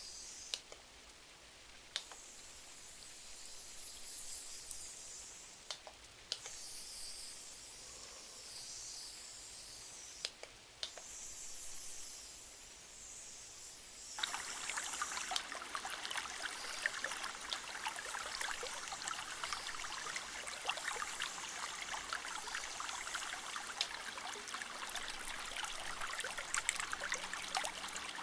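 Rain ambience: a steady hiss of rain with a few isolated sharp clicks, then about halfway through a denser, louder patter of fine ticks sets in abruptly and continues.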